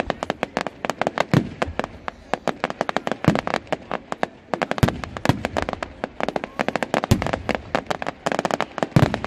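Fireworks display: a dense, rapid run of sharp cracks and pops, several a second, with a handful of deeper bangs among them.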